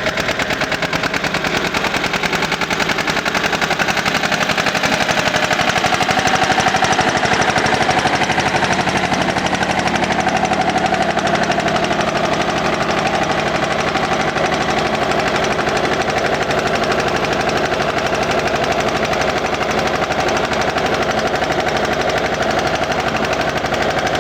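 Eicher tractor's diesel engine running steadily with a rapid, even knocking beat.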